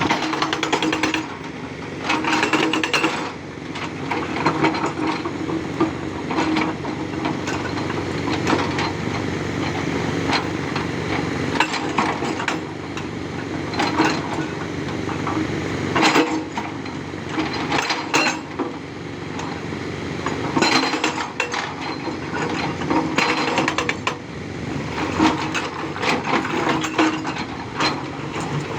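Tata Hitachi 200 Super excavator's hydraulic rock breaker hammering rock in rapid repeated blows, over the steady running of the excavator's diesel engine.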